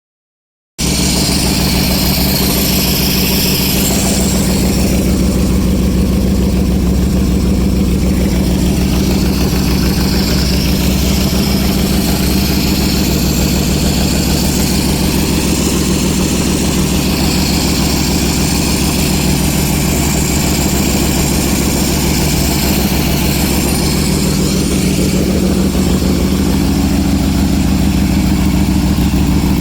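Freshly rebuilt Harley-Davidson Shovelhead V-twin engine running at a steady idle. It comes in abruptly just under a second in and then holds steady.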